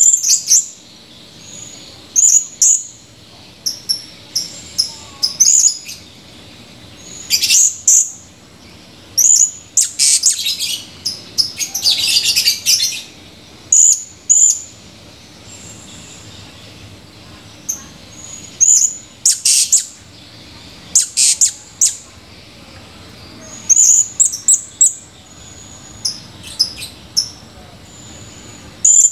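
Male blue-crowned hanging parrot (serindit) calling: short, shrill, high-pitched chirps in quick clusters of two to five notes, with a longer run of rapid twittering about ten to thirteen seconds in.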